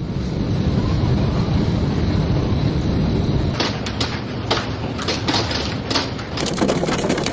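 Low, rushing storm noise of wind and heavy rain, with a scatter of irregular sharp knocks from about halfway through.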